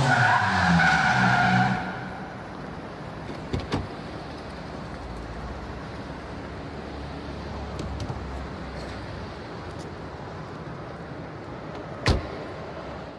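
Ford Fiesta rally car's engine revving hard for about two seconds, then dropping away to a quiet low rumble. A single sharp knock comes near the end.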